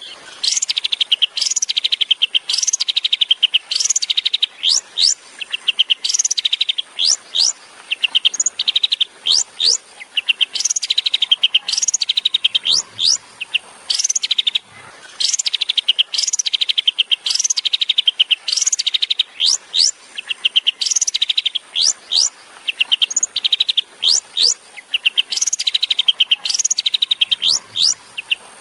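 Long-tailed shrike (cendet) singing a fast, repeating song in the 'tembakan' style: quick rattling trills alternate with sharp upward-sweeping whistles, one phrase after another.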